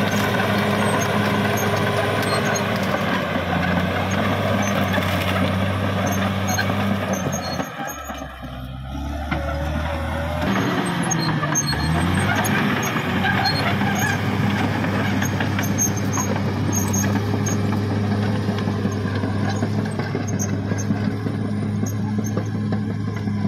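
CAT D6R XL bulldozer's diesel engine running hard with the clank and squeal of its steel tracks. About a third of the way in the engine note drops off briefly, then dips in pitch and recovers as it takes up the load again.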